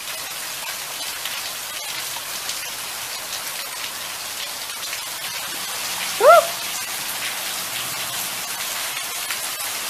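Heavy rain falling steadily, with water pouring off the edge of a roof. About six seconds in, a brief call rising in pitch rises over the rain.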